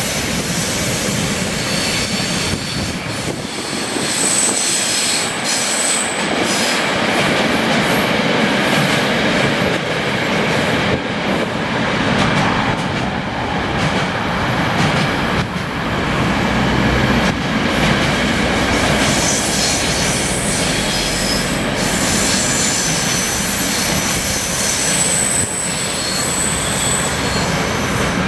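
Container freight train's wagons rolling past, a continuous rumble and rattle of wheels over the rails. Thin high-pitched wheel squeals ring out twice, about four seconds in and again near the end.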